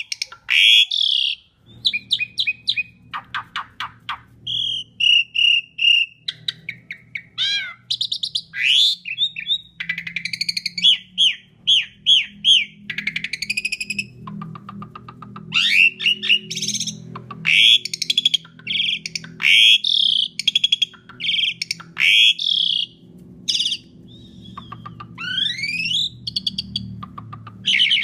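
Asian pied starling (jalak suren) singing a loud, varied song. It mixes whistled notes, fast rattling trills, runs of repeated short notes and rising slurs, in quick phrases with brief pauses between them.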